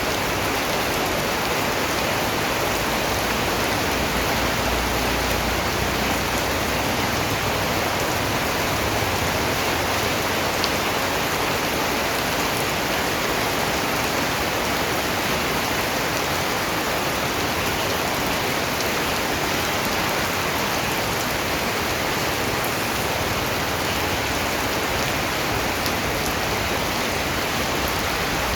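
Steady rain falling and pattering on a surface, with scattered individual drops heard as faint ticks over an even hiss.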